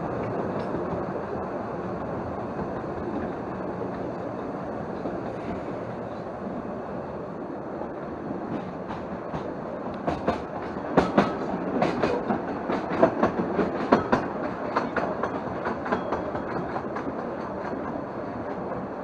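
Narrow-gauge railway carriage running along the track with a steady rumble, and a run of sharp clicks and knocks from the wheels passing over track joints from about ten seconds in.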